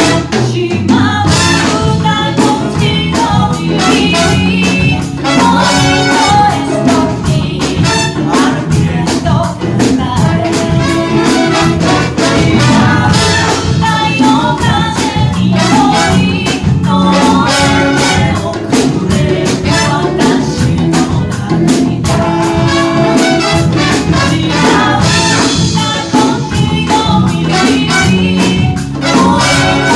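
Live band music with brass horns over a steady drum beat, in a Latin dance-band style.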